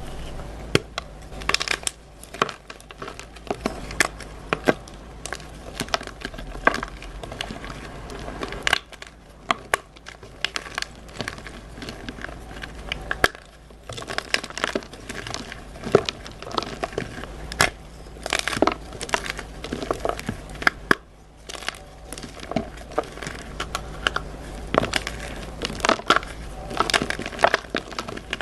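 Blocks of dyed gym chalk being crushed, with many sharp crunches and cracks, several a second, over a steady crumbling.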